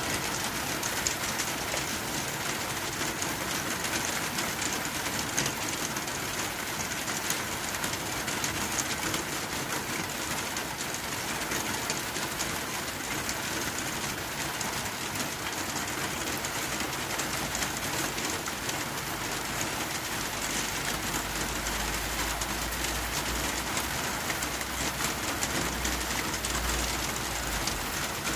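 Rain falling on a tin roof: a dense, steady patter of many small ticks on the metal. A low rumble joins in for the last third.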